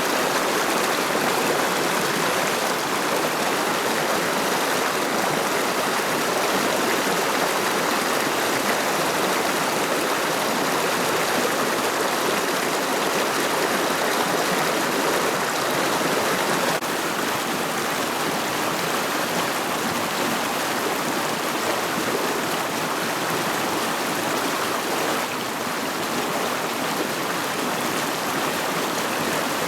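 Rushing water of the McCloud River, a steady, loud flow with a slight drop in level a little past halfway.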